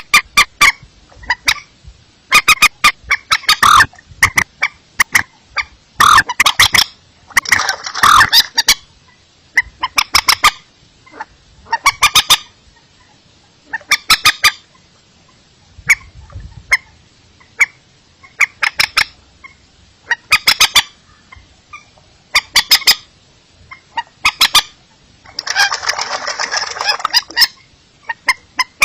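Paddy-field rail (mandar) calling in bursts of rapid, clipped notes, a burst about every two seconds, with a denser, harsher stretch of about a second and a half near the end.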